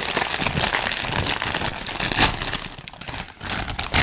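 Crinkly plastic snack bag of cheese puffs rustling and crackling as it is handled and pulled open, with louder crinkles about two seconds in and near the end.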